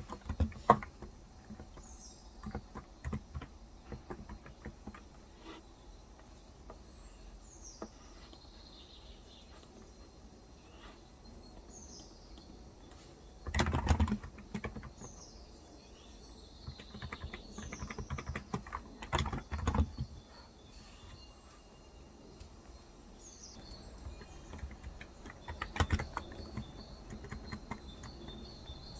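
Typing on a Cox Endeavour electro-capacitive (Topre-style) 35 g tenkeyless keyboard, keystrokes coming in short clusters with pauses between, over birds chirping throughout with repeated short, falling high chirps.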